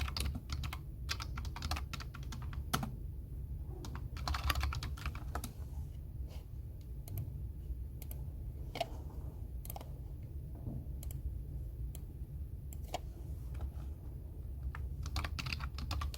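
Typing on a computer keyboard in short bursts of rapid keystrokes, with scattered single key presses between the bursts. A steady low hum runs underneath.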